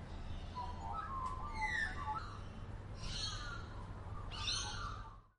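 Birds calling: several falling whistled calls and warbling chirps over a low, steady background rumble, cutting off abruptly near the end.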